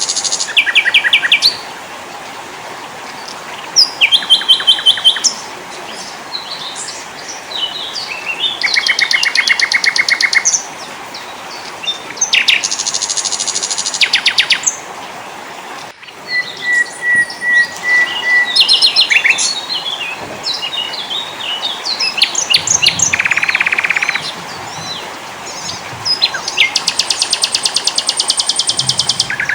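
Several small songbirds singing in turn: fast trills repeated every few seconds, scattered chirps, and a run of clear whistled notes at one pitch about halfway through.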